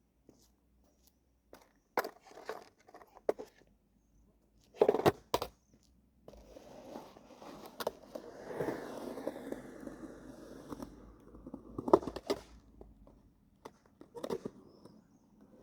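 Skateboard sounds: scattered board clacks and knocks, then a loud double smack about five seconds in, followed by the wheels rolling steadily for several seconds. A sharp hard impact comes about twelve seconds in, and the rolling picks up again near the end.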